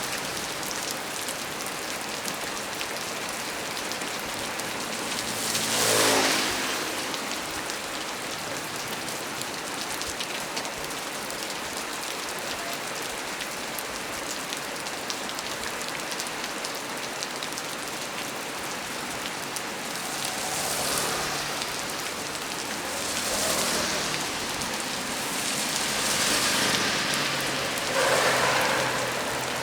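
Heavy rain falling steadily on the leaves of a small tree, a dense hiss of drop hits. Several brief louder swells, each a second or two long, come about six seconds in and four times in the last ten seconds.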